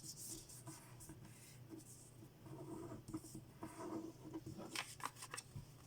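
Faint rustling and crinkling of a small square of origami paper being handled and folded by hand, a corner brought to the center and creased, in short scratchy strokes.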